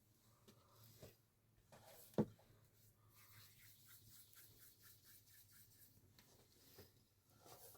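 Near silence, with a single sharp knock about two seconds in and faint light ticking after it.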